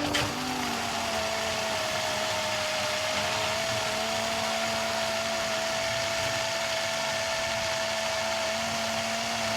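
Small electric blender running continuously, puréeing mushroom soup into a cream soup. It gives a steady high whine that dips slightly as it starts, then holds an even pitch.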